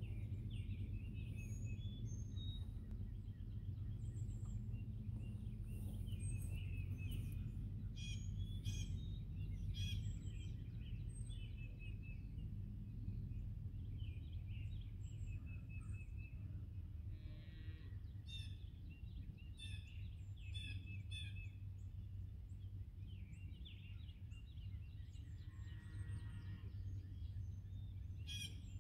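Songbirds chirping and trilling again and again over a steady low hum.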